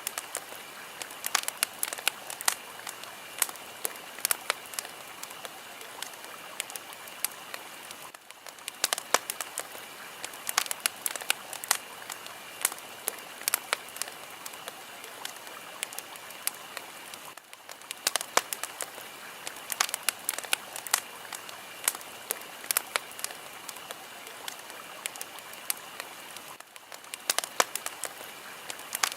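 Fire crackling: a steady hiss with many sharp pops and snaps. It is a looped recording that dips briefly and starts over about every nine seconds.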